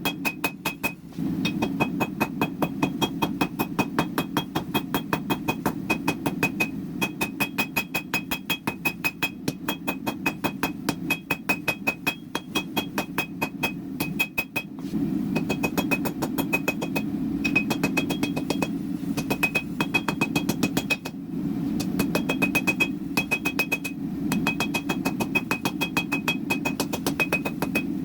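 Hammer blows on a hot jelly roll Damascus steel billet being forged out, rapid and evenly spaced at about five a second, each with a bright metallic ring, over a steady low hum. The hammering pauses briefly a few times.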